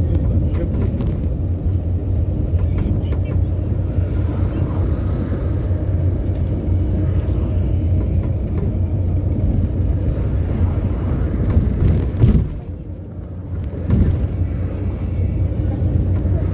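City bus under way, heard from inside the cabin: a steady low engine and road rumble. Past the middle it drops away for about a second, then comes back with a knock.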